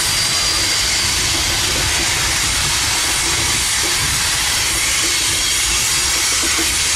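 Freight train rolling past: a steady loud rushing of the cars' wheels on the rails.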